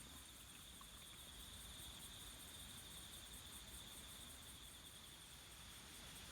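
Faint chorus of singing insects: a steady high trill with a fainter, rapidly pulsing trill above it.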